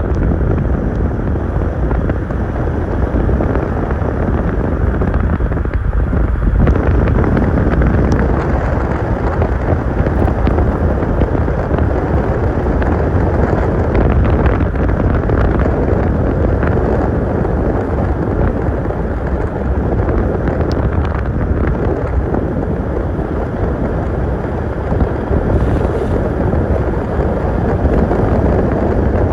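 Car on the move: a steady low rush of road and engine noise mixed with wind buffeting the microphone.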